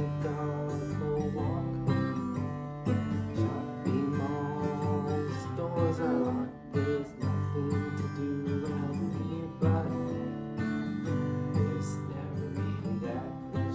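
Acoustic guitar music: an instrumental passage of the song, strummed chords with picked notes moving over them, with no singing.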